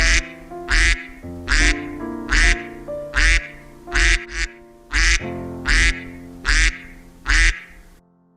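Duck quacking over and over in a steady rhythm, a little more than one quack a second, over light background music. The quacks stop about eight seconds in.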